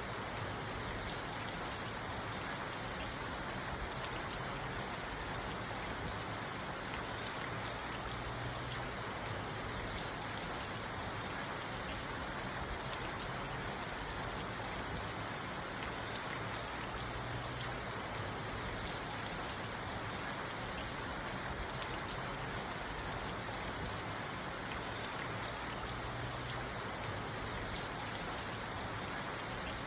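Steady rain falling on a parked car, heard from inside the cabin: an even hiss of rain on the roof and windows with scattered drop taps.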